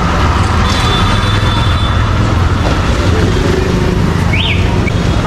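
Busy city street traffic: vehicle engines running close by as a steady low rumble over a haze of road noise, with a short high chirp about four seconds in.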